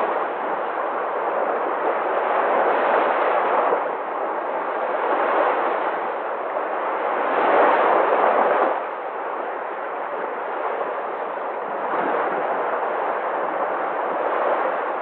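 Sea waves washing in: a steady rushing noise that swells and falls every few seconds, with the biggest surge about eight seconds in, which drops away suddenly.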